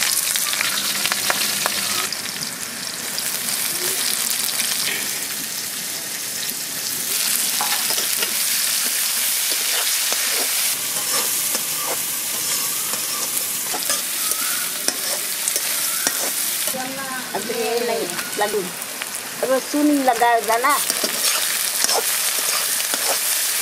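Green chillies and sliced onions sizzling in hot oil in an aluminium kadai, stirred with a spatula.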